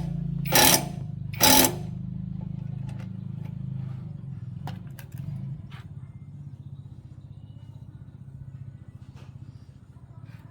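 Small engine of an agricultural machine running just after starting, with three loud short bursts in the first two seconds, then settling into a steady idle that slowly grows quieter.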